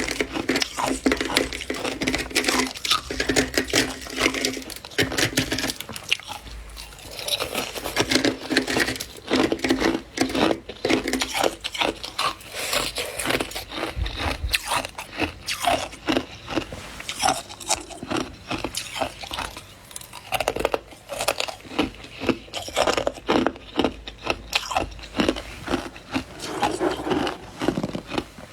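Freezer frost being bitten and chewed: a dense run of crisp crunches.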